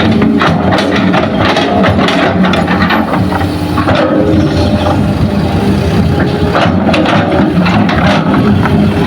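Heavy diesel earthmoving machinery running steadily, with stretches of clanking and rattling in roughly the first three seconds and again near the end.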